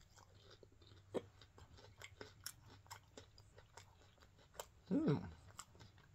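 Close-up chewing of fried battered cheese bites dipped in ranch: soft, scattered crunches and mouth clicks. About five seconds in comes a short vocal sound from the eater, the loudest moment.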